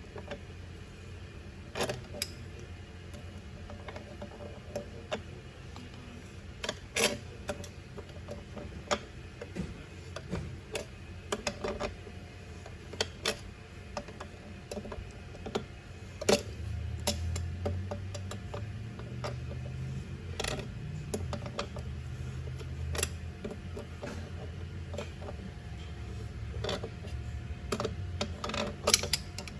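Scattered metal clicks and knocks of hand work on a coilover shock as its insert is threaded into the housing. A low hum comes in about halfway through.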